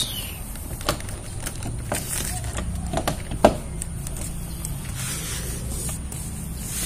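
Scattered clicks and knocks of plastic car door trim parts being handled and pulled off, the sharpest about three and a half seconds in, over a steady low hum.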